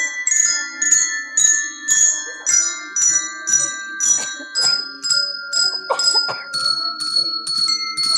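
Handbells rung one after another in turn, about two strikes a second, each note ringing on under the next. The notes step downward in pitch like a descending scale.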